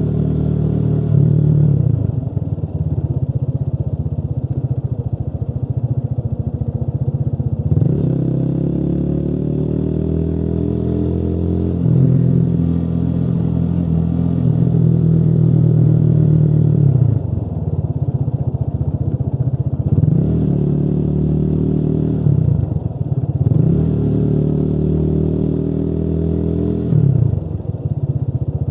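Motorcycle engine running under way. Its note rises steadily for a few seconds, drops suddenly, holds, then falls off and picks up again several times as the throttle is eased and reopened.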